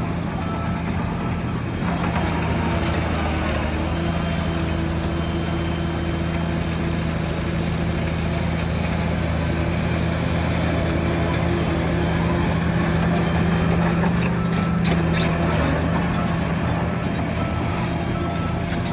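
Heavy diesel engine of earthmoving machinery running steadily under load, swelling a little for a few seconds past the middle. A reversing alarm beeps at the start and again near the end.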